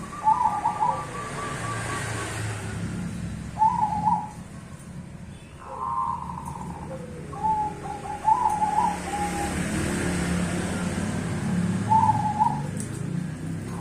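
Zebra doves (perkutut), a Cemani and a Bangkok strain, cooing in duet: about six short, bubbly coo phrases come every couple of seconds over a low steady rumble.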